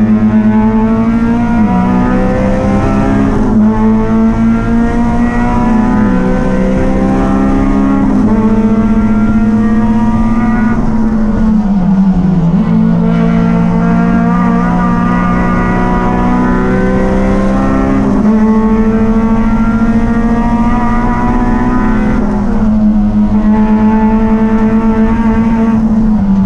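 Race car engine running hard at high revs, its pitch dipping briefly every few seconds and then climbing back up.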